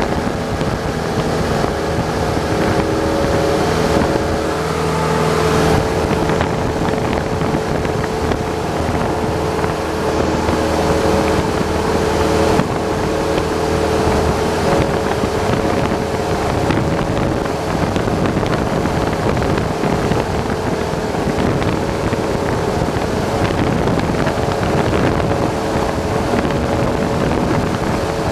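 Cessna 172's piston engine and propeller running at a steady power setting, a constant drone with an even rush of air over it.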